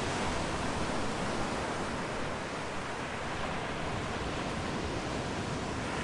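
Steady, even rushing noise of a forest ambience recording, with no bird calls or other distinct sounds standing out.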